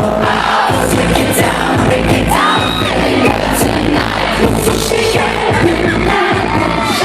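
Live K-pop concert music over the venue's PA, recorded from the audience: a pop track with a heavy beat and sung vocals, with the crowd's screams and cheers mixed in.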